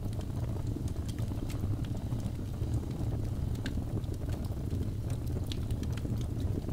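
Wood fire burning in a fireplace: a steady low rumble of flame with irregular small crackles and pops, a few each second.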